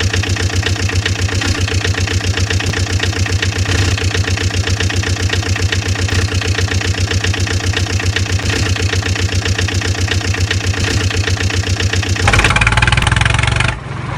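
An engine idling with a rapid, even chugging; about twelve seconds in it turns louder and rougher.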